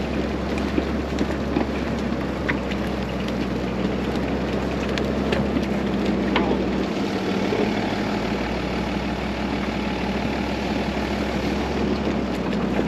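Snowcat engine running steadily at an even speed, with a few light clicks and rattles.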